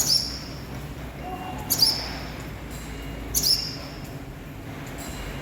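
Barn swallows calling: three short high chirps, each falling in pitch, about a second and a half apart.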